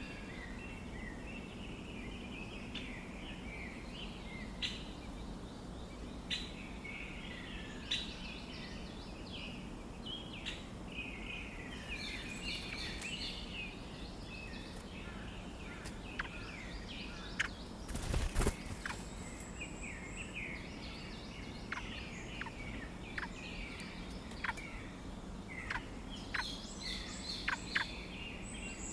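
Grey-backed thrush nestlings begging: a continuous chatter of rapid, high chirps and short downward-sliding calls. A brief rustling knock comes about two-thirds of the way through.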